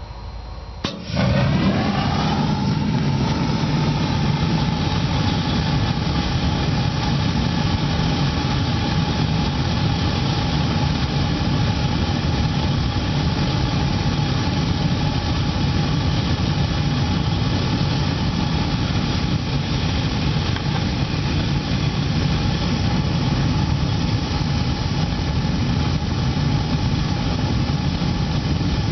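Gas water heater's main burner lighting off the pilot about a second in, then burning with a loud, steady rush. A faint tone rises briefly as the flame settles, then holds steady.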